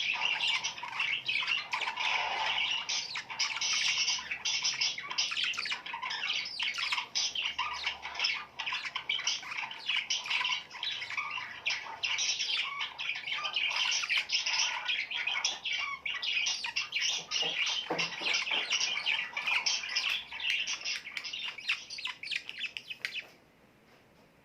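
Many small birds chirping and squawking together in a dense, continuous chorus of high, quick calls, which cuts off abruptly near the end.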